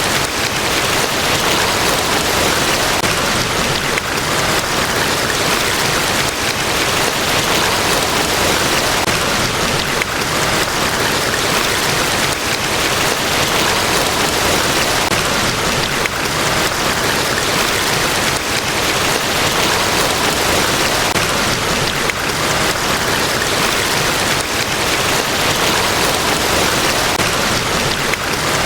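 Large waterfall: a steady, loud roar of falling water that does not change.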